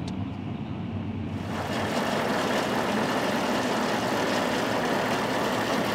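Heavy farm machinery running steadily during the maize harvest, a dense even machine noise that swells in over the first second and a half and then holds.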